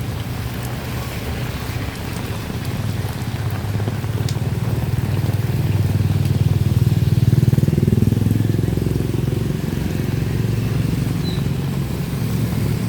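Motorbike traffic passing on a street: engines running, growing louder toward the middle, with one engine rising in pitch as it speeds up.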